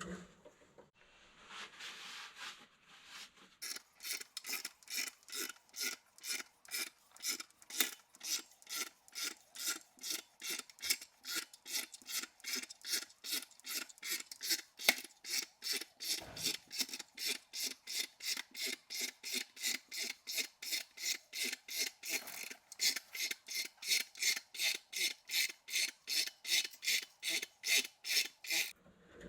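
Transmission jack being pumped by hand to lift a transfer case: a long run of even rasping strokes, about three a second.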